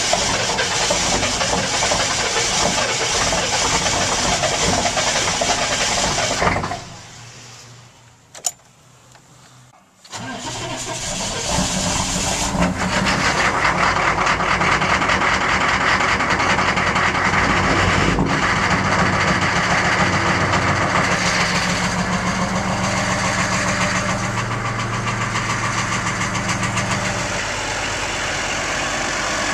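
Chevy 6.5L turbo-diesel V8 struggling through a cold start. It cranks and runs for about six seconds, then cuts out. After a click and a pause of about three seconds it starts again about ten seconds in and settles into a steady idle.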